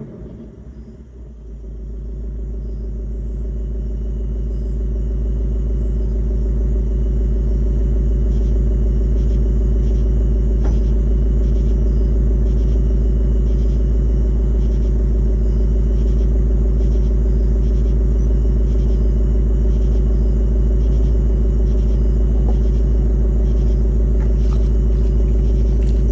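Ford Mustang GT's 5.0-litre V8 idling steadily through its factory active exhaust with a deep rumble. It dips briefly about a second in, then grows louder over several seconds and holds steady.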